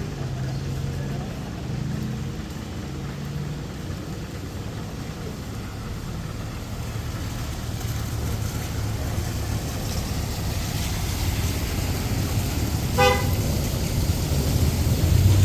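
Road traffic with vehicle engines running, one growing louder toward the end as it draws near. About 13 seconds in there is a single short horn toot.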